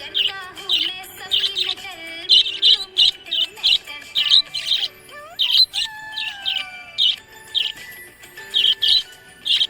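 Budgerigars chirping, short bright chirps repeating a few times a second, over music with held notes and a sliding note near the middle.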